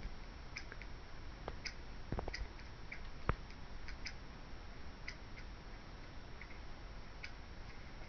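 Short, faint bird chirps repeating every second or so, played from a bird video through a device speaker. A few soft taps come in the first half, the loudest a little past three seconds in.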